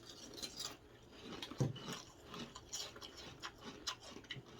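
Someone chewing a mouthful of crunchy Frosted Flakes in milk: faint, irregular crunching with small clicks.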